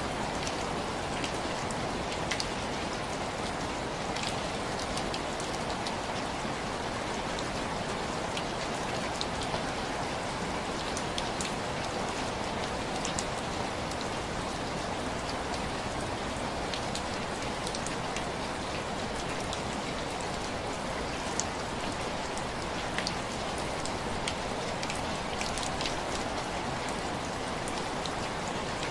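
Steady heavy rain falling, an even hiss with scattered sharp ticks of drops.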